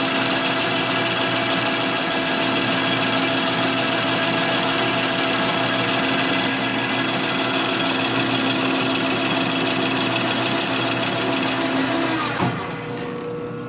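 Metal lathe running with its cutting tool taking a pass along a hot-rolled steel bar, a steady machine drone with a fine grinding edge. About twelve seconds in the cut ends with a knock, and the lathe carries on running more quietly.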